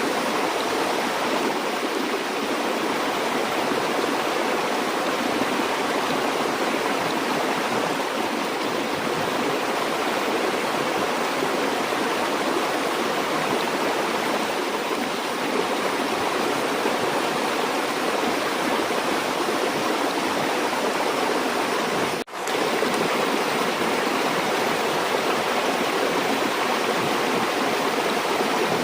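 Steady rushing of flowing stream water, an even, unbroken wash of noise. About three-quarters of the way through it cuts out for a split second and comes straight back.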